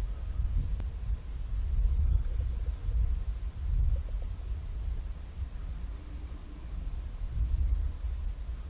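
Gusty wind rumbling on the microphone, with a steady high-pitched insect trill that does not vary.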